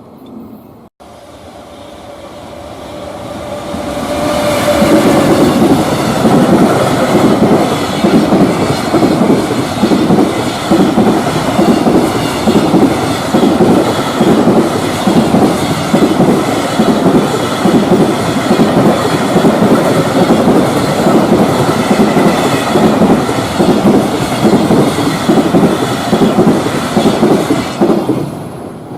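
Freight train of container wagons passing close by, growing louder over the first few seconds as it arrives, then wheels clattering over the rail joints in a steady rhythm of about two beats a second until it fades near the end.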